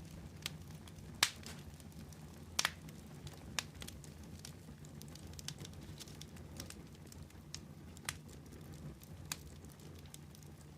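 Fire crackling: irregular sharp pops and snaps, the loudest in the first three seconds, over a steady low rumble.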